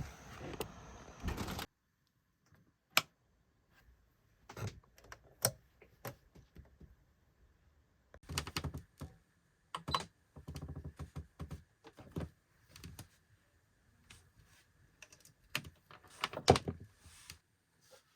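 Irregular clicks, knocks and short clattering of small objects being handled in a small enclosed space.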